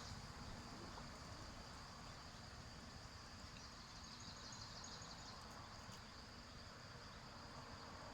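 Faint insect chorus, a steady high-pitched trill, over a low rumble of background noise.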